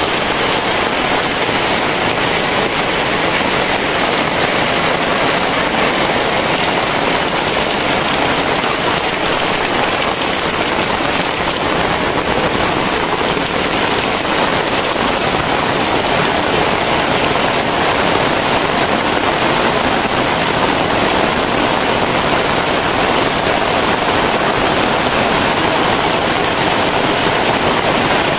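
Heavy, steady rain pouring down in a dense, unbroken hiss.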